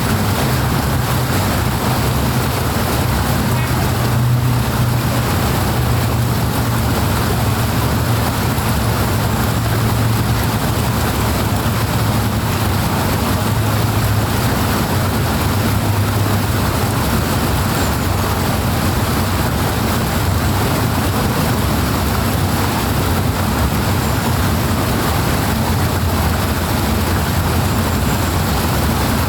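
Rushing water flowing hard and continuously, a steady, even rush with a deep low rumble underneath.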